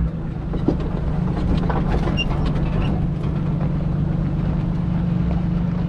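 Off-road vehicle's engine running steadily on a trail, a low even hum with a few light knocks and rattles over it.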